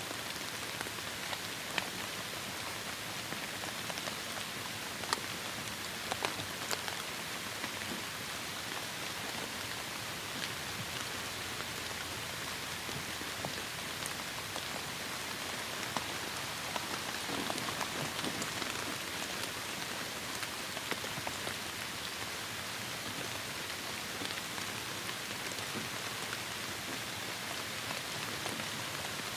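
Heavy rain falling steadily: a dense, even hiss with scattered sharper drop impacts.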